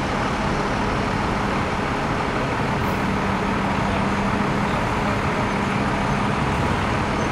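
Motor vehicle engine idling with a steady low hum, amid traffic noise.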